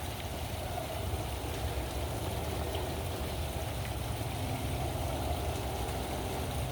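Steady splashing of water from a pool fountain, with a low rumble underneath.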